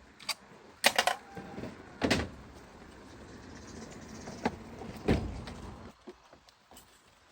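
Several sharp knocks and clicks, the loudest about one, two and five seconds in, over a steady hiss that fades out about six seconds in.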